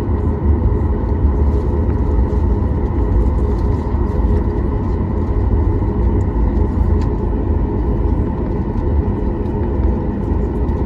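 Steady, loud jet cabin noise of a Boeing 737 MAX 9 with CFM LEAP-1B engines: a deep, even rumble with steady engine tones above it.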